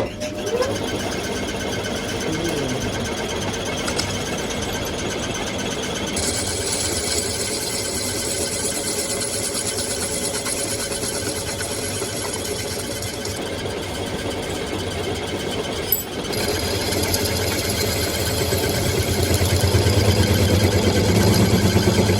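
A metalworking machine's electric motor spinning up with a rising whine and then running steadily. A high, hissy cutting noise joins it from about a quarter of the way in to past the middle, and comes back louder after a click about three-quarters of the way in.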